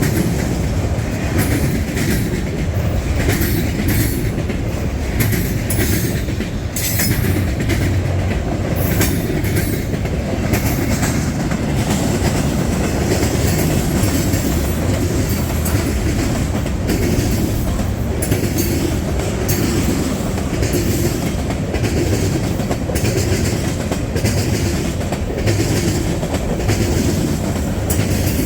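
Long freight train rolling past at close range, its cars clacking steadily over the rail joints.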